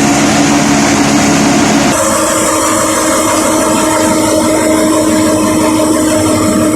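Tractor-driven atta chakki (stone flour mill) running: the tractor engine and mill machinery make a loud, steady hum. The sound changes abruptly about two seconds in, then holds steady again.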